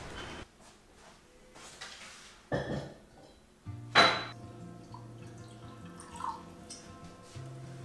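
Kitchenware knocking twice, the second a louder ringing clink. Soft background music with held notes comes in just before the clink.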